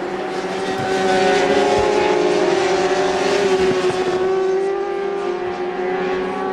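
Racing motorcycle engines running at high revs, several held tones at once, growing louder about a second in and easing off after about four seconds as the bikes go by.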